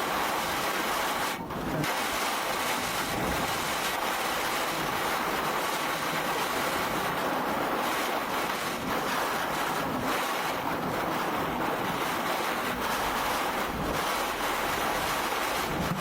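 Tornado winds and heavy rain lashing a police squad car, a steady loud rushing noise with a brief lull about a second and a half in.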